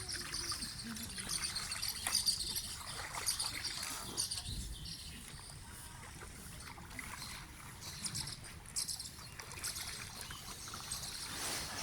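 Birds and insects chirping at a high pitch over trickling, lapping water, with many short clicks.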